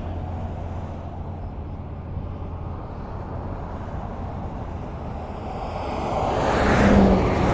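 Highway traffic: a steady rumble of tyre noise and engines with a low drone under it. It swells as a vehicle passes close by and is loudest about seven seconds in.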